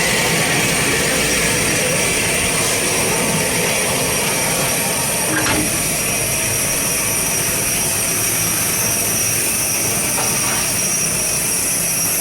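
Steam locomotive letting off steam: a steady, loud hiss with a thin high whistle-like tone running through it.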